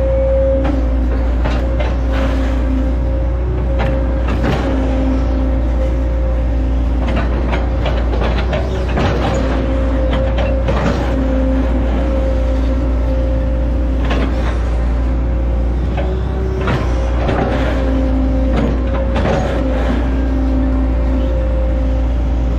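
Hitachi ZX110 hydraulic excavator running steadily under load with a steady whine, amid repeated sharp cracks and knocks as it chops up oil palm trunks.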